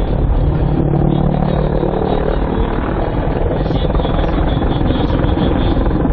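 Helicopter in flight: steady rotor and engine noise, with a low hum that fades about two and a half seconds in.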